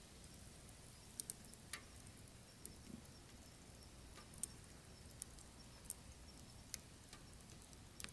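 Burning firewood crackling: irregular sharp pops and ticks, about a dozen, over a faint steady hiss.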